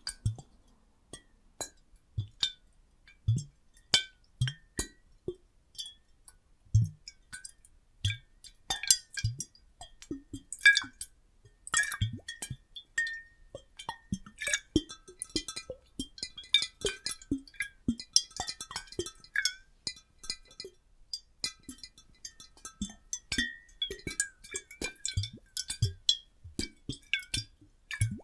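Water sloshing inside glass bottles: irregular glassy clinks with brief ringing tones, mixed with short low plops and bloops of moving water, coming thick and fast.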